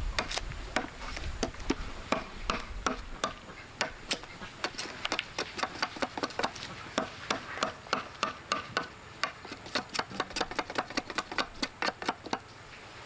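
An irregular run of sharp knocks and clicks, often several a second, with short pauses between clusters.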